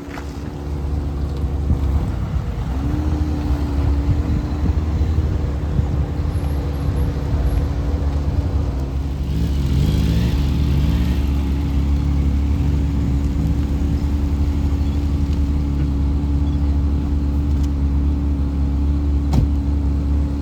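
Classic car engines running as cars drive slowly in one after another: a steady engine drone, with revs wavering up and down about halfway through.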